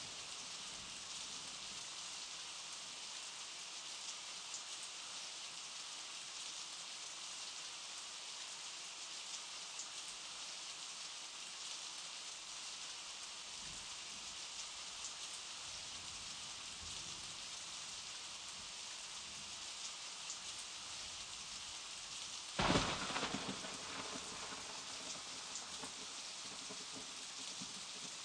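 Steady rain falling onto the sea's surface: an even, fine hiss of many drops striking the water. About three-quarters of the way through, a sudden louder burst that dies away over a second or two.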